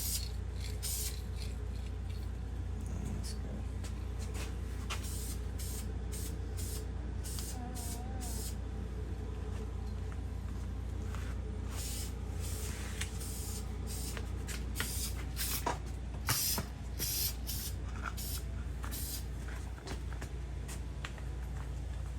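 Spray paint hissing in many short bursts, one after another, as the engine block is painted, over a steady low hum.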